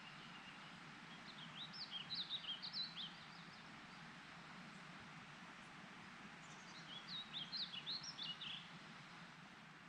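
A songbird singing two quick, twittering song phrases of high notes, each about two seconds long, one about a second in and the next about four seconds later. A steady, faint hiss of outdoor ambience sits underneath.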